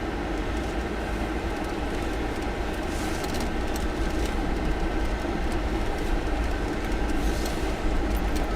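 Steady road and engine noise inside a moving car's cabin, with a low rumble and a few faint ticks.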